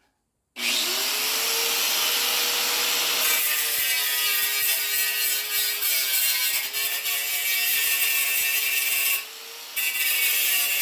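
Electric grinder spinning up and cutting steel, a steady high whine with a harsh grinding hiss. It eases off the cut briefly near the end, then bites in again.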